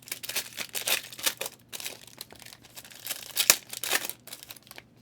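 Plastic trading card pack wrapper being torn open and crinkled by hand, a run of crackling rustles that eases off near the end.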